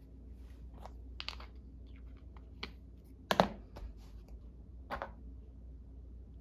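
Scattered light clicks and taps of craft supplies being handled and set down on a tabletop, about six in all, the loudest a fuller knock about three seconds in, over a steady low room hum.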